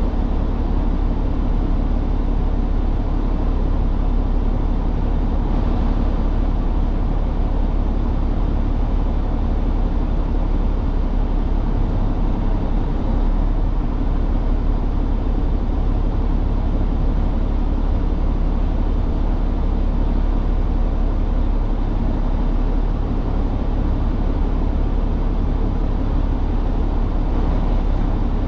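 Steady low rumble of a truck's diesel engine and road noise, running evenly without change.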